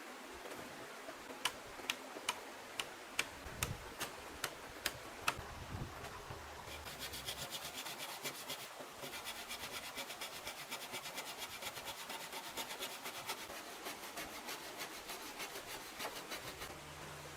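A hand tool working wood: sharp taps about twice a second, then from about seven seconds in a fast, even rasping rhythm of short scraping strokes.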